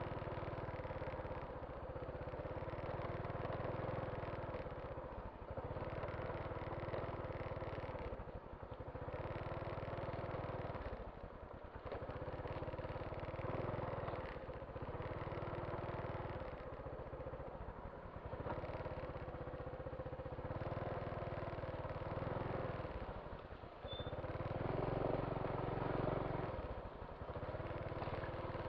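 Motorcycle engine running under way, its note rising and falling, with brief dips every few seconds.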